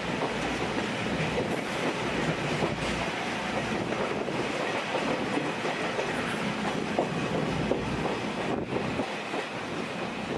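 JNR 50-series passenger coach running on the main line, heard from inside the coach: a steady rumble of wheels on rail with clickety-clack over the rail joints.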